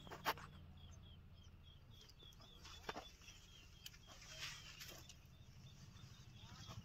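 Faint outdoor ambience: a bird repeating a short high chirp about four times a second, pausing midway, with a sharp click just after the start and another near three seconds, over a low rumble.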